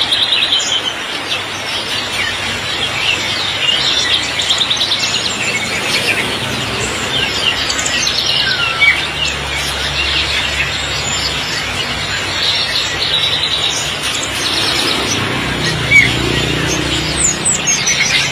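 Many songbirds chirping, trilling and whistling at once, overlapping all the way through, over a steady hiss of heavy rain. A low steady hum comes in about halfway through.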